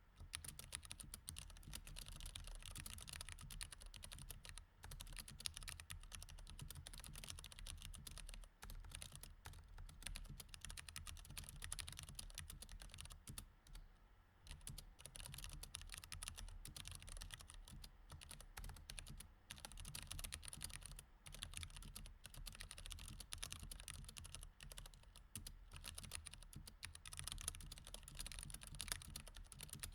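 Mechanical keyboard with Cherry MX Red switches being typed on continuously and quickly, a dense patter of key clicks with a short pause about halfway through, over a faint low hum.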